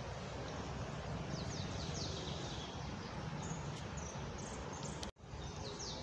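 Outdoor ambience: a steady background hiss with small birds chirping briefly several times. The sound drops out for an instant about five seconds in.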